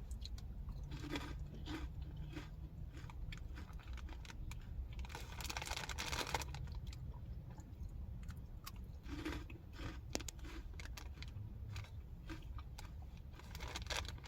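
Close-up chewing and crunching of crunchy cheese-puff snacks (Colombian Cheetos): a run of quick crisp crunches, with a louder, denser stretch about five to six seconds in.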